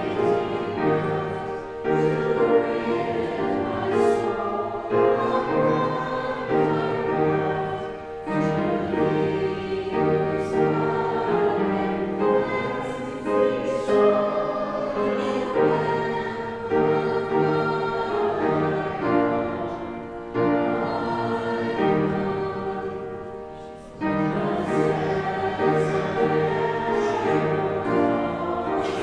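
A congregation singing a hymn together, held chords moving at a steady pace. There is a short break about five seconds before the end, and then the next line begins.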